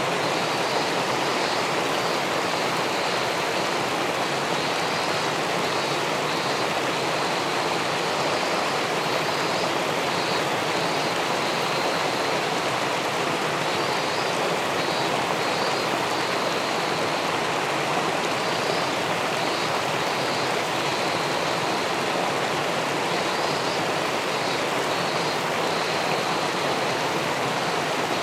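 Steady, even rush of river water spilling over a small weir into the pool below. Faint high chirps come and go in short runs over it.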